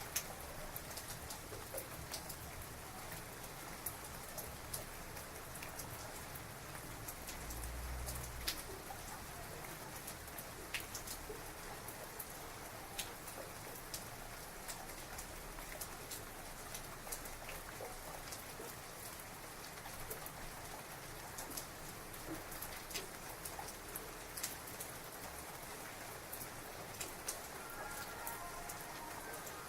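Heavy rain falling steadily, with many sharp close drips and splashes on a surface. A brief low rumble comes about eight seconds in.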